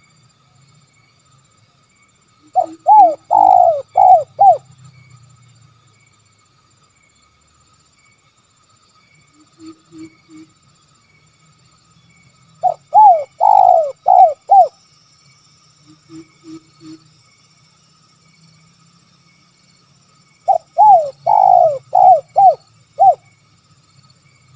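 Spotted dove (tekukur) cooing: three phrases of about five quick, arched coos each, some eight seconds apart. Softer, lower groups of three short coos come in between.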